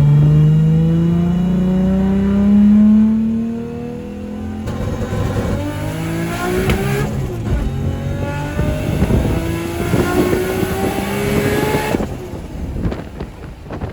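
Turbocharged Nissan RB25 NEO straight-six on a full-throttle pull through the gears. The revs climb, drop at a gear change, climb again twice, then the throttle closes near the end.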